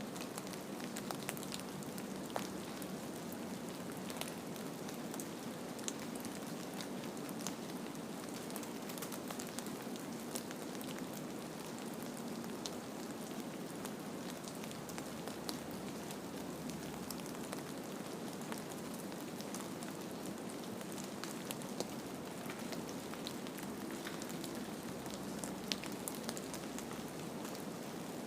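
Steady patter of precipitation falling on a surface: an even hiss dotted with many small, sharp ticks.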